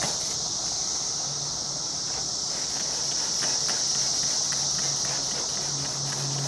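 Steady outdoor insect chorus, an even high-pitched buzz, over a faint low hum.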